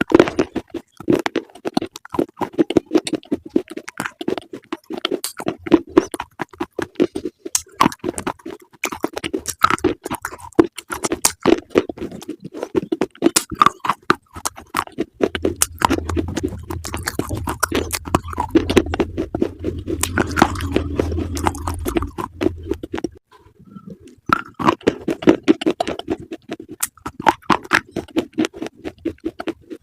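Close-up crunchy chewing: rapid, irregular crunches of crisp food being bitten and chewed, with a low hum for several seconds in the middle.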